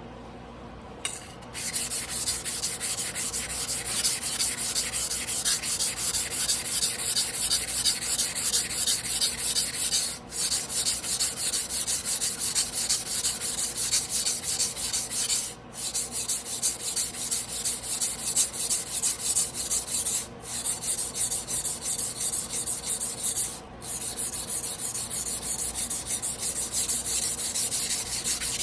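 Tojiro Damascus carbon-steel yanagiba blade stroked rapidly back and forth on a whetstone by hand: a steady rasping scrape that starts about a second in and stops briefly four times.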